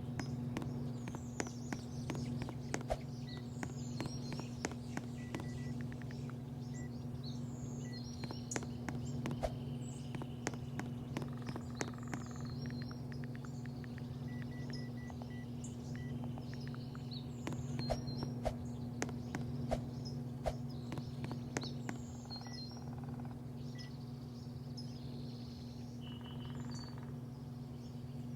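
Birds chirping in short, repeated calls over a steady low mechanical hum, with frequent sharp clicks throughout.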